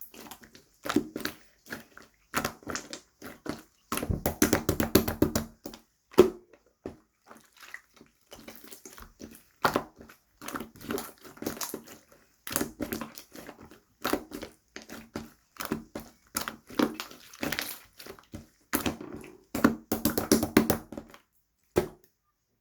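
Slime being squished and pressed by hand, giving irregular runs of sticky clicks, pops and crackles with short pauses between handfuls.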